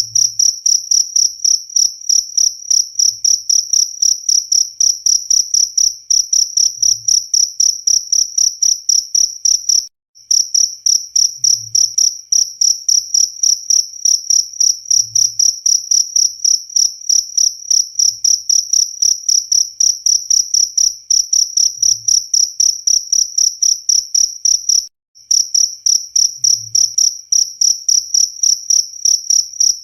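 Cricket chirping in a fast, even train of high-pitched pulses. It breaks off for a moment twice, where the recording loops.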